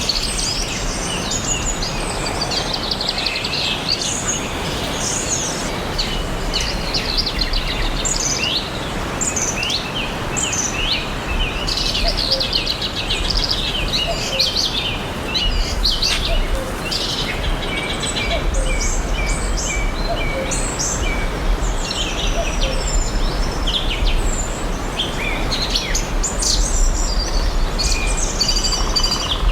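Several songbirds chirping and singing together, with many overlapping short chirps and trills, over a steady background hiss.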